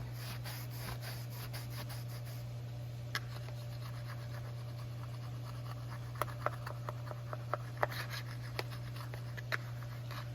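Scattered light clicks and scrapes of small hard parts being handled, clustered in the second half, over a steady low hum.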